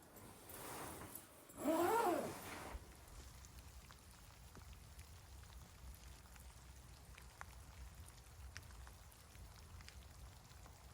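A short, wavering call about two seconds in, which is the loudest sound, followed by a low, steady rumble with a few faint ticks.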